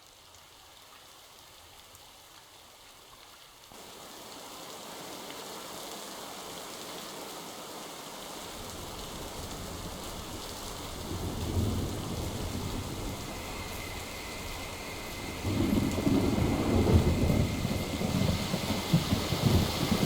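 Recorded rain-and-thunder ambience from a relaxing-sounds app, building in layers. Steady rain hiss thickens about four seconds in. Low thunder rumble enters about eight seconds in and grows much louder from about fifteen seconds.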